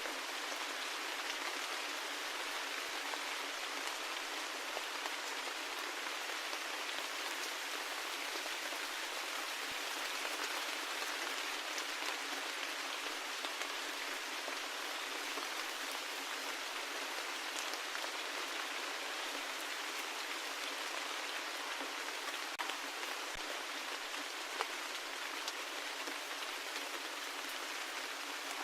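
Steady rain: an even hiss of falling rain, with scattered ticks of single drops landing.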